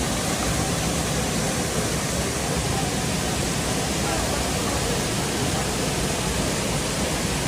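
Steady rushing noise, even and unbroken, of the kind made by running water or wind.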